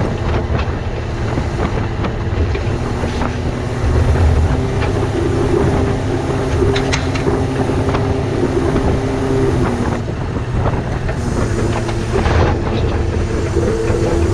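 Diesel engine of a crane-manipulator truck running steadily, with a humming whine laid over it that sets in a few seconds in, drops out around ten seconds, and comes back about two seconds later.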